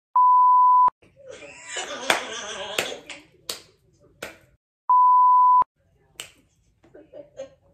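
Two loud, steady beeps of a TV colour-bars test tone, each just under a second long and about five seconds apart. Between them a woman laughs, with a few sharp clicks.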